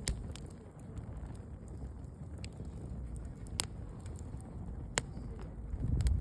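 Wood fire crackling, with a handful of sharp, separate pops over a low steady rumble that swells briefly near the end.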